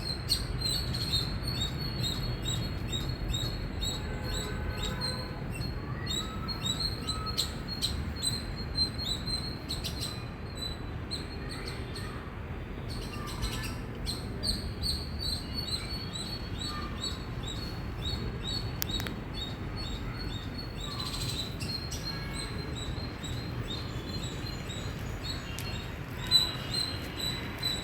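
Indian palm squirrel chirping: a long, rapid series of short, sharp, high-pitched chip calls, several a second, over a low background rumble.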